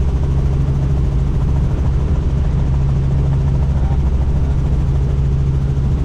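Helicopter in flight heard from on board: a steady, loud low drone from the rotor and engine over rushing noise, unchanging throughout.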